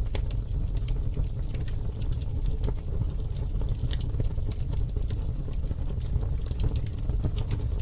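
Campfire crackling: frequent small sharp pops and snaps from the burning wood over a steady low rumble.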